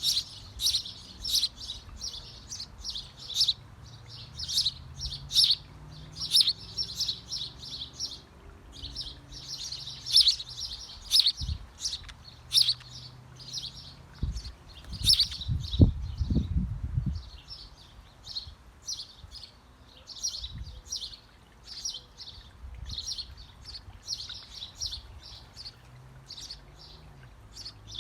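Small birds chirping in a birdhouse: rapid, high, repeated chirps that go on throughout, with a brief low rumble of bumping a little past halfway.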